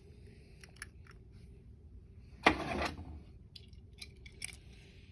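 Small clicks and light knocks of toy trains being picked up and handled, with a brief louder rustling noise about two and a half seconds in.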